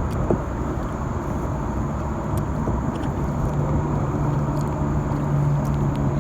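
Steady rumble of road traffic, with a low engine drone setting in about three seconds in.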